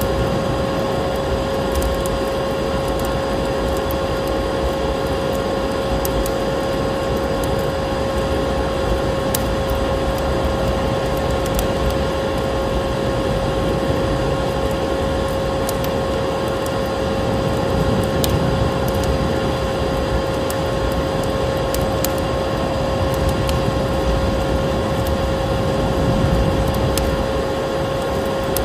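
A vacuum cleaner running steadily with a constant whine, layered with a wood fire crackling in short scattered pops and snowstorm wind noise.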